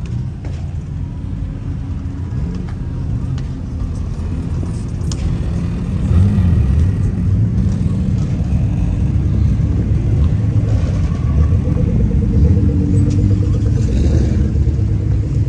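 Car engines running with a low rumble, growing louder about six seconds in.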